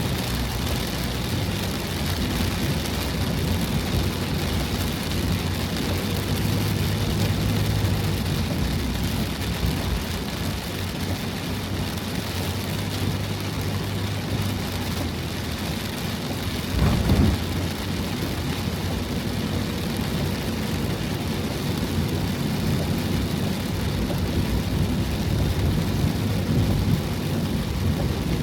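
Heavy typhoon rain hammering steadily on a van's roof, with a deep constant rumble underneath. About seventeen seconds in there is one short, louder thump.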